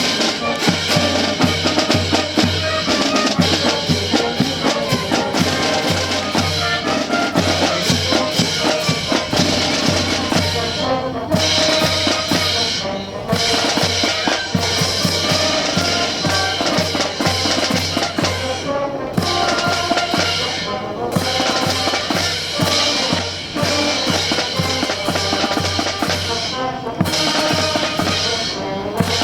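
Brass band playing a march, with bass drum and snare drum keeping a steady beat.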